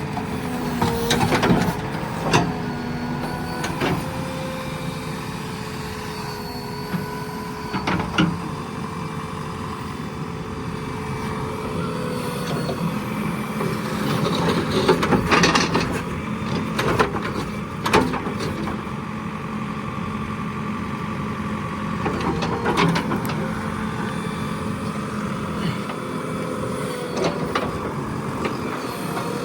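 JCB 3DX Plus backhoe loader's diesel engine running steadily, its pitch shifting slightly as the machine works, with sharp metallic clanks and knocks every few seconds, the loudest cluster about halfway through.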